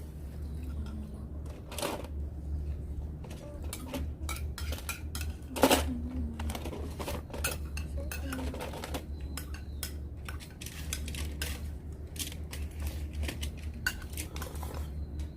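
Utensils clinking and scraping against a ramen pot and bowls during eating, in irregular light clinks with a couple of louder knocks, over a steady low hum.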